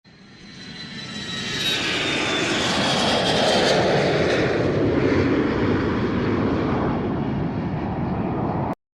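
Aircraft engine passing by: the noise builds over the first two seconds, carries a high whine that slides slightly lower as it goes by, and cuts off abruptly near the end.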